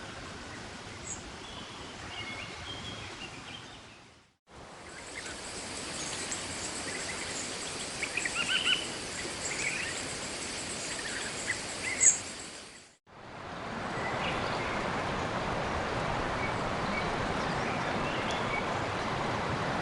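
Rainforest ambience in three short segments joined by brief fades, about four and thirteen seconds in. An even background hiss runs under scattered bird chirps, with a steady high whine in the middle part. The last part is a louder, even rushing hiss.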